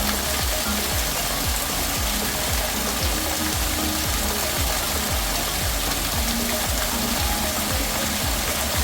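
Artificial waterfall: water falling and splashing close by, a steady, even rush of noise.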